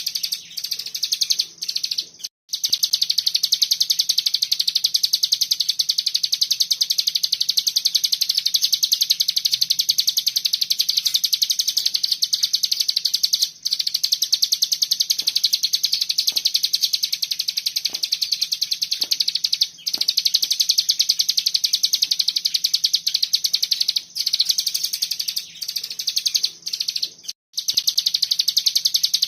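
Cigun songbird singing its rapid, machine-gun-like 'ngebren' trill: a high-pitched run of very fast notes that goes on almost without a break, stopping briefly only three or four times. This is the tight, dense 'bren' delivery that keepers play as a tutor recording for other birds.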